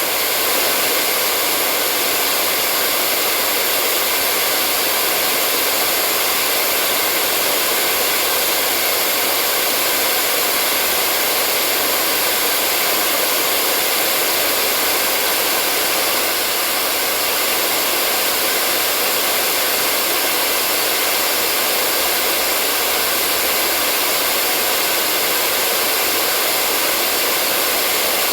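Electric hair dryer running steadily: an even rush of air and fan noise that does not change.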